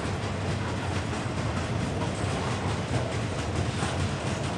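Train passing: a steady rumble of wheels on rails, with fine clatter and no breaks.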